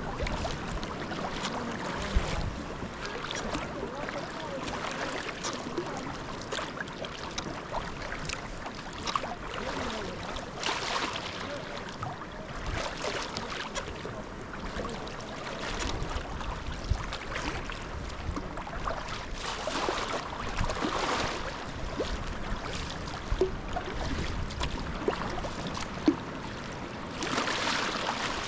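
Sea kayak paddling: paddle blades dipping and splashing at irregular intervals, with water lapping and sloshing against the hull over a steady wash of sea and wind. A louder stretch of splashing comes near the end.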